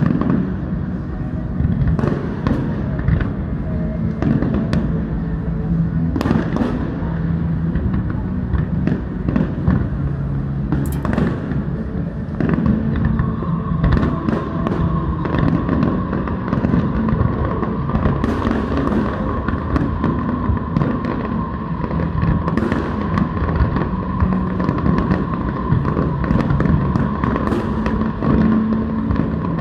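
Fireworks display going off continuously, with many separate sharp bangs and crackles over a dense rumble, and music playing underneath.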